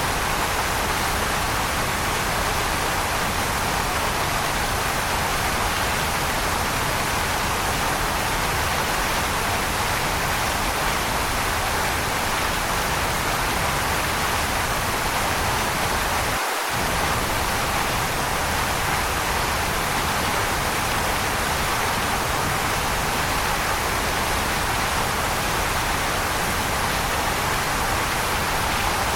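Waterfall rushing in a steady, even hiss, strongest in the middle range, with a momentary dip in its low rumble about halfway through.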